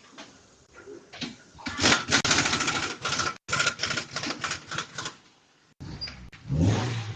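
A fast run of mechanical clicks and knocks, with a steady tone under them, for about three and a half seconds. It is followed near the end by a louder, lower sound.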